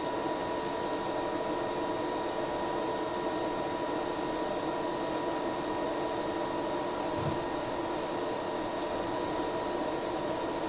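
Geeetech A20 3D printer running during a filament change, with its extruder pushing filament out: a steady fan hum with a constant high whine over it.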